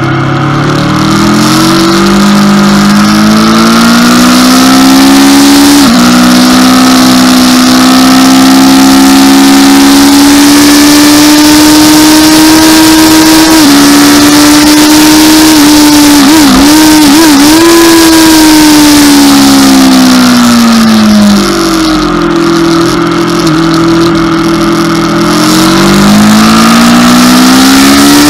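Aprilia RSV4's V4 engine at full throttle, climbing in pitch through the gears with a short drop at each upshift. About two-thirds of the way in the pitch wavers, then falls as the throttle closes, holds a lower note for a few seconds, and climbs again near the end.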